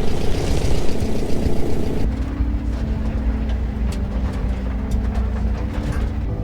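Air-cooled flat-four engine of a 1950s VW bus running while driving a rough dirt trail. About two seconds in the sound changes abruptly from a loud drone with a strong hiss to a quieter engine hum with scattered light clicks and rattles.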